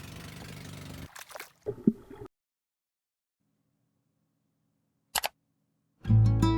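About a second of noisy ambience, then a few short clicks and knocks, then near silence broken by a sharp double click. Strummed acoustic guitar music starts near the end.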